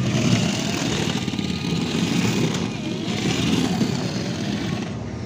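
A motor vehicle running steadily, a continuous low rumble.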